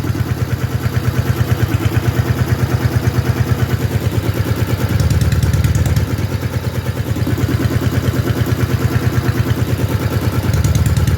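K-750 motorcycle's flat-twin side-valve engine running through its original mufflers fitted with homemade baffles, a steady pulsing exhaust beat. It gets louder for a second about five seconds in and again near the end. This is a test of how much quieter the baffled mufflers are.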